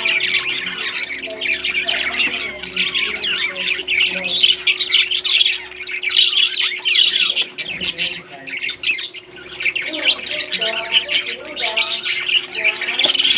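Pet parrots chattering and squawking without a break, a dense stream of short rising and falling calls, over a faint steady hum.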